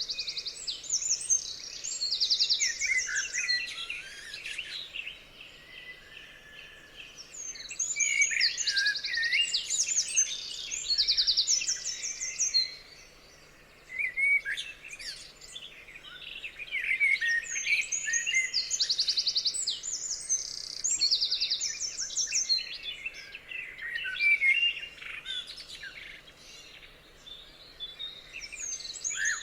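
Several songbirds singing at once: overlapping chirps, whistled glides and fast trills, with a brief lull about halfway through.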